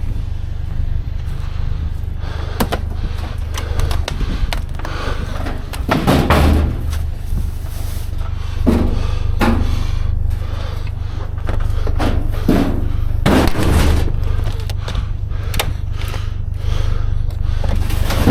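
Sheet-metal appliances, a washer and a dryer, being shoved and manhandled into a pickup bed: repeated hollow metal clunks, bangs and scrapes, over a steady low hum.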